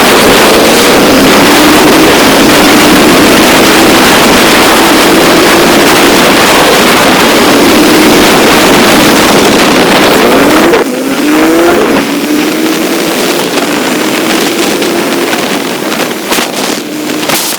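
Motorcycle running under way, its engine note wavering beneath heavy wind rush on the microphone. About eleven seconds in, the wind noise drops and the engine note climbs sharply.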